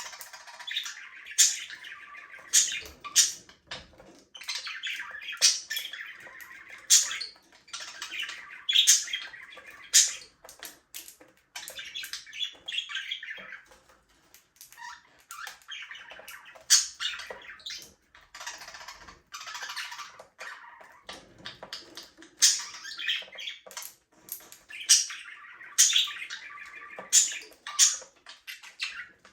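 A flock of budgerigars chirping and chattering continuously, with sharp, loud squawks scattered throughout and a few brief lulls.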